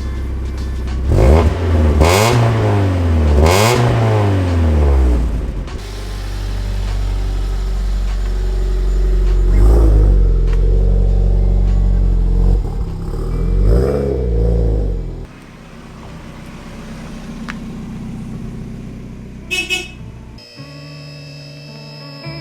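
Mazda NA Miata's four-cylinder engine idling and being revved several times through its stock exhaust, which leaks in multiple spots and has a rusted-out muffler; it sounds horrible. The sound drops sharply a little past halfway, and music comes in near the end.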